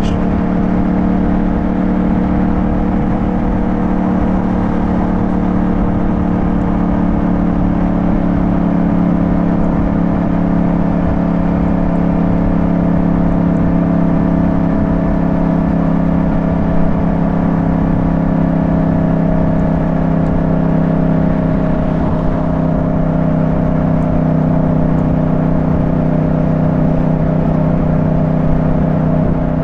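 Motorcycle engine running steadily at cruising speed, a constant engine drone over road and wind noise.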